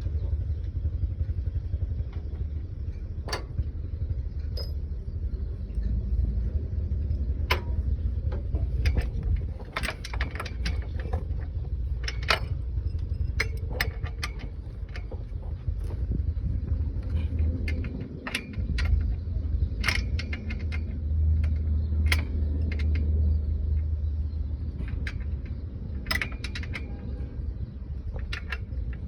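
Irregular metallic clinks and knocks of hand tools and parts during manual work on a truck transmission, over a continuous low rumble.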